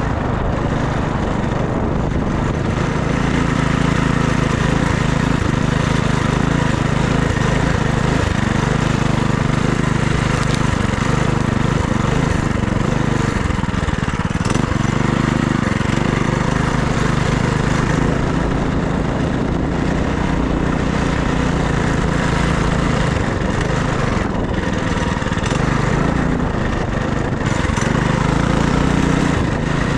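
FRP GMB100 minibike's small single-cylinder engine running under way, its pitch rising and falling with the throttle over a steady rush of noise.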